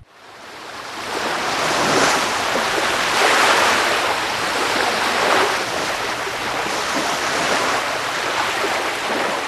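A loud, steady rushing noise like surf. It fades in over the first two seconds and then swells and ebbs several times, like waves breaking.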